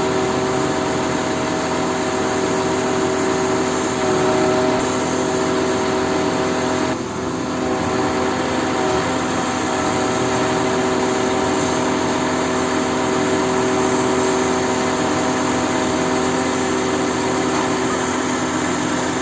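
Crane truck's engine running steadily at a constant speed, with a brief dip about seven seconds in.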